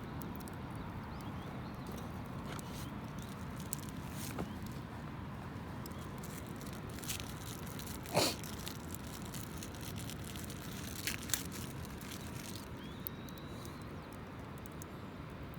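Wood campfire crackling: a steady hiss with scattered sharp pops, the loudest about eight seconds in.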